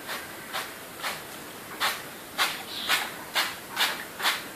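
Short hissing bursts of sprayed water, one about every half second, louder from about two seconds in, as an Alexandrine parrot is showered.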